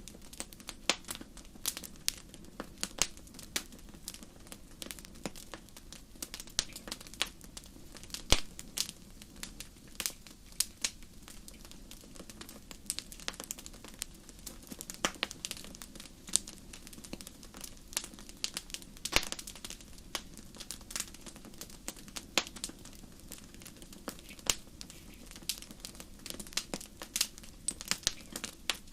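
Wood fire crackling in a fireplace: irregular sharp pops and snaps, several a second, over a steady low rush of burning.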